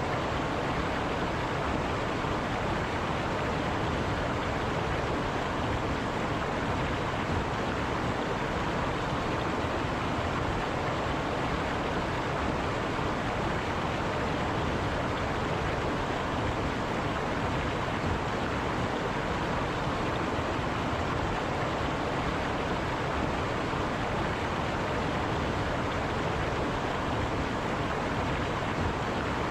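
River water running over rocks: a steady, even rush without breaks.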